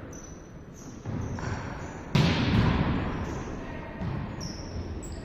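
Volleyball being played in a gym hall: several sharp ball hits, the loudest about two seconds in, each echoing off the hall. Brief high squeaks of shoes on the court floor come and go between the hits.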